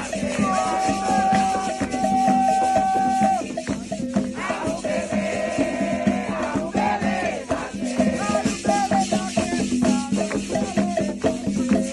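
Candomblé ritual song: voices chanting over steadily shaken rattles, with one note held for about three seconds near the start.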